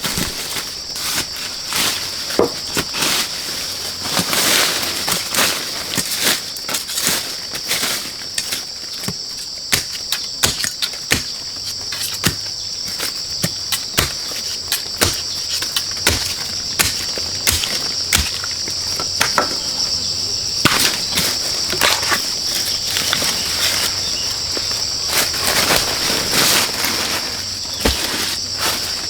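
A steady high-pitched trill of insects, with frequent irregular clicks, snaps and rustles of close-up handling, such as work on bamboo shoots.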